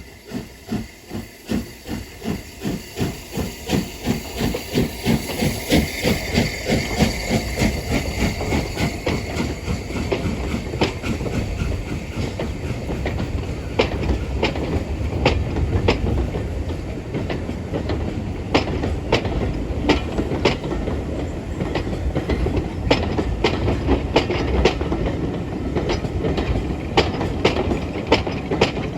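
SR Schools class three-cylinder 4-4-0 steam locomotive 'Cheltenham' pulling away with a train, its exhaust beats quickening over the first several seconds. The beats then sink into the steady rumble of the train rolling by, with clickety-clack of wheels over the rail joints.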